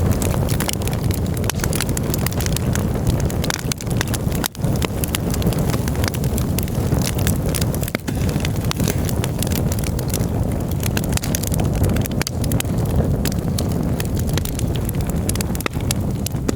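Campfire burning, with dense irregular crackles and pops over a steady low rumble.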